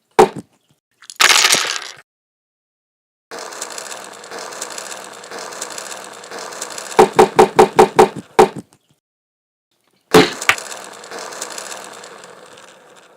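Mechanical sound effects of working machinery: a brief hiss, then a steady grinding, ratcheting run broken by a quick series of about seven clanks, and two more sharp clanks before it fades out.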